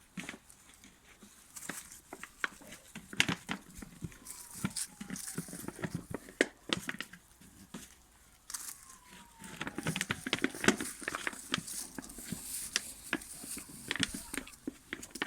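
Cane Corso puppies scuffling and tearing at things in the backyard: irregular crackling, rustling and tearing noises, with two faint falling tones, one about four seconds in and one about nine seconds in.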